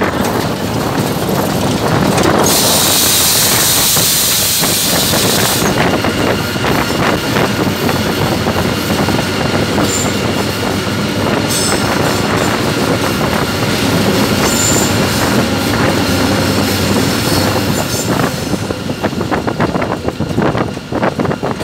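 Old GE diesel-electric locomotive running on the rails, a loud steady mix of engine and wheel noise with constant clicking from the wheels. A high hiss rises about two and a half seconds in and lasts about three seconds, and clickety-clack knocks over rail joints grow more distinct near the end.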